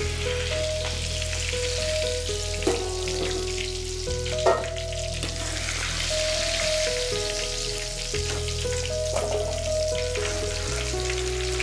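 Green herb masala sizzling as it fries in oil in a pot, with a sharp knock about four and a half seconds in, under background music with a simple stepping melody.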